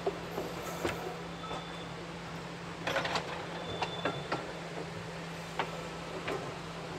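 Rack railway train running, heard from inside the driver's cab: a steady low drone with scattered rattling clicks and knocks, the densest cluster about three seconds in, and a few brief high squeaks.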